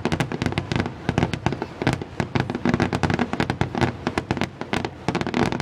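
Fireworks grand finale: a rapid, dense barrage of bangs and crackling bursts going off one after another without a break.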